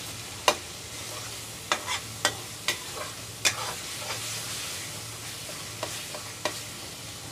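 Chicken frying in onion-tomato masala in a pan, sizzling steadily while a spoon stirs it, with several sharp clinks of the spoon against the pan.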